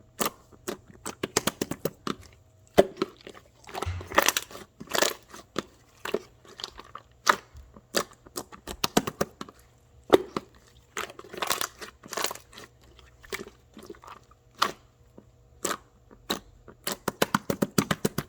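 Irregular crunching and crackling: clusters of sharp, crisp crackles and clicks, some quick runs of them, with no steady rhythm.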